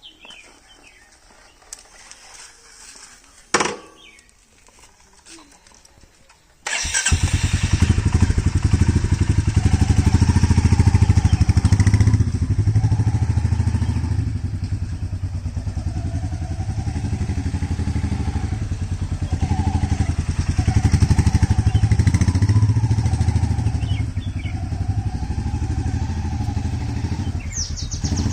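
Royal Enfield Meteor 350's single-cylinder engine starting up suddenly about seven seconds in, then running steadily with a fast, even beat and a little rise and fall in level. Before it there is a single sharp click. This is the test run after cleaning the rear brake pads, and the rider hears no rear brake noise.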